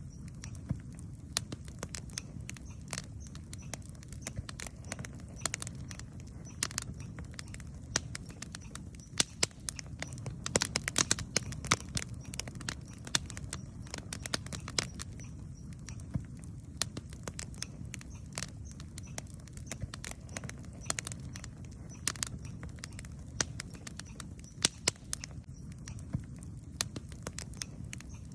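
Wood campfire burning: a steady low rumble from the flames under irregular sharp crackles and pops, thickest about ten to twelve seconds in.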